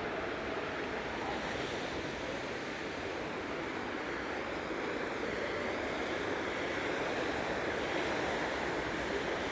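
Steady rushing street noise of traffic on rain-wet roads, tyres hissing on the wet asphalt in an even wash with no single event standing out.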